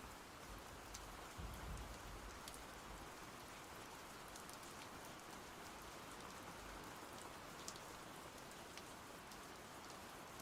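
Faint, steady rainfall with scattered individual drop ticks, and a brief low rumble about a second and a half in.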